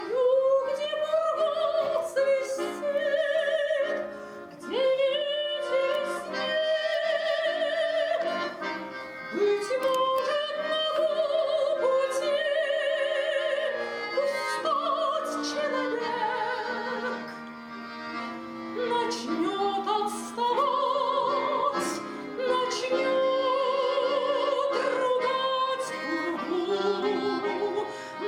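A woman singing a song in a trained, classical style, holding long notes with wide vibrato, over accordion accompaniment.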